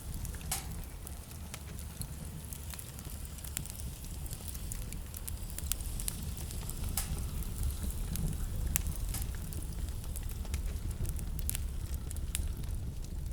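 Wood fire crackling in a fireplace: scattered sharp pops and snaps, a few each second, over a steady low rumble.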